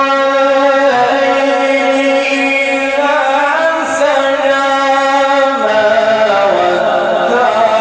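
A man's voice reciting the Quran in a melodic chanted style, drawing out one long melismatic phrase whose pitch steps up and down several times without a break.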